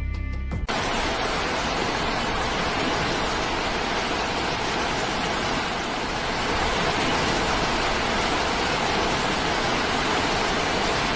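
Steady, even rushing noise that starts abruptly about a second in, after a brief moment of music.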